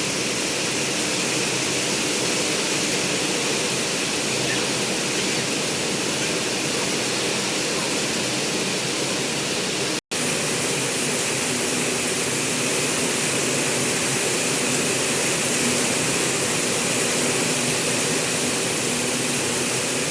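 Heavy rain falling steadily, a dense, even hiss that cuts out for an instant about halfway through.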